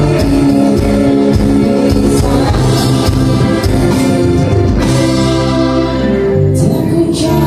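Live band playing, with a bass line and a drum beat under held notes; the beat drops out about two thirds of the way through, leaving longer held notes with a couple of cymbal hits near the end.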